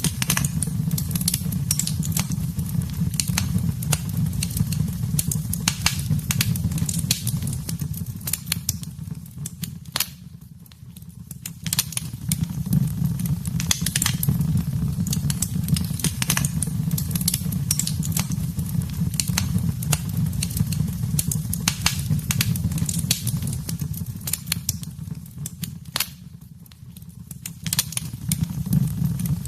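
Wood fire burning in a fireplace: a steady low rumble of flames with frequent sharp, irregular crackles and pops. The sound dips briefly twice, about ten seconds in and again near the end.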